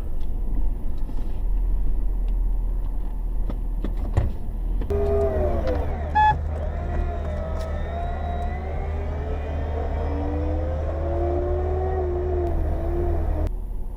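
Pickup truck engine running and revving in sand, its pitch rising and falling, over a steady rumble of wind on the microphone. A brief pitched tone sounds about six seconds in.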